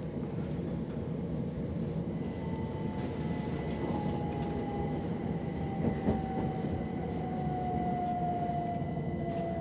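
Steady low industrial machinery rumble. After about two seconds a steady high whine joins it, along with a second whine that slowly falls in pitch, and there are a couple of knocks about six seconds in.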